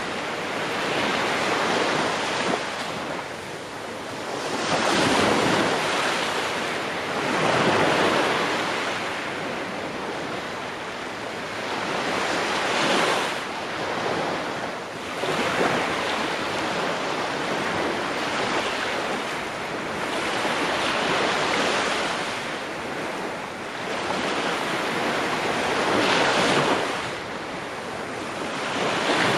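Ocean waves breaking on a shore in a continuous wash of surf, with a wave surging up and falling back every few seconds.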